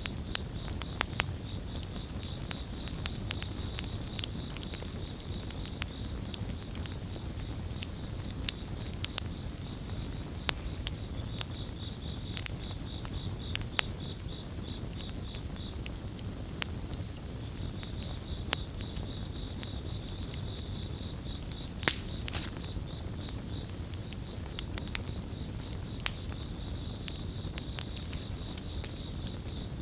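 Campfire crackling, with frequent sharp pops over a low rumble of burning; the loudest pop comes about two-thirds of the way through. Crickets chirp in fast, high, pulsing trills that come and go.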